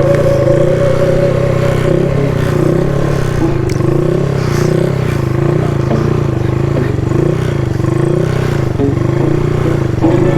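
Honda Grom's small single-cylinder engine running at moderate revs, its pitch rising and falling slightly over and over as the throttle is worked through slow circles.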